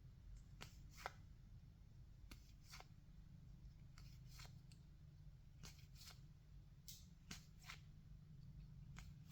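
Faint, scattered soft clicks and swishes of baseball trading cards being flipped through by hand, about a dozen in all, over a low steady hum.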